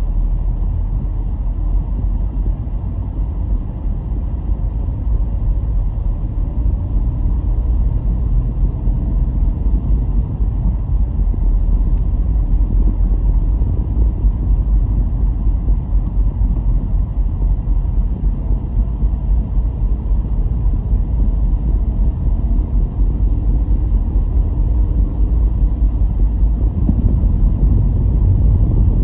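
A car driving along: a steady low rumble of engine and tyres on the road, swelling slightly near the end.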